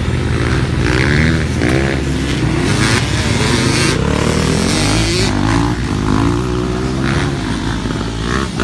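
Suzuki RM-Z250 motocross bike's four-stroke single-cylinder engine revving under load, its pitch rising and falling again and again as the rider works the throttle and gears around the track.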